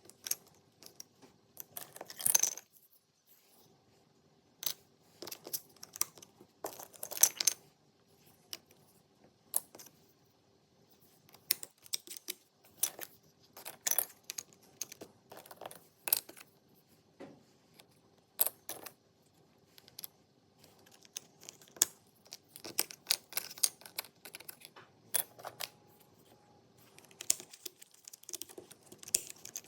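Jigsaw puzzle pieces being handled: irregular light clicks and small clatters as pieces are picked up, knocked together and pressed into place, with short pauses between.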